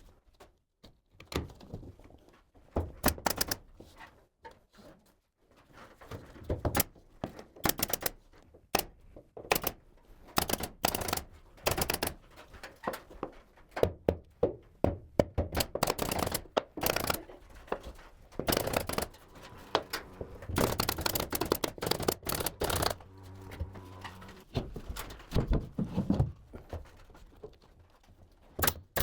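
Carpentry work fastening plywood boards into a ceiling frame: irregular runs of sharp knocks and clicks, with a brief steady machine hum a little before the end.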